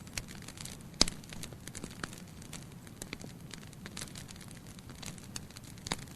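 Wood fire of burning logs in a fireplace crackling, with many small irregular snaps over a low steady rumble of flame. A sharp pop stands out about a second in, and another near the end.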